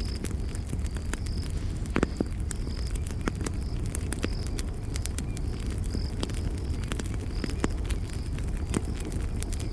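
Wood campfire crackling, with frequent sharp pops (the loudest about two seconds in) over a steady low rumble of the flames. A cricket chirps steadily in the background, a short high chirp repeating every second or less.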